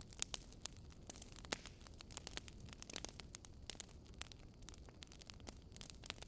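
Fire in a fireplace crackling: irregular sharp snaps and pops over a soft, steady rumble, with a few louder snaps in the first second and a half.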